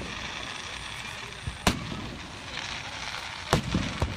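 Aerial fireworks shells bursting: four sharp bangs, the last two close together, over a continuous noisy background.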